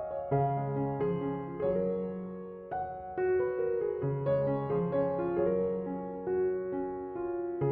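Gentle background piano music: a slow melody of struck notes over sustained bass notes.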